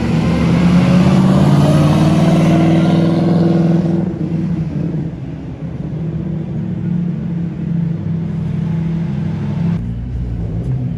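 A car engine running close by, loud and rising in pitch through the first four seconds as it accelerates, then settling into a steadier, quieter running note.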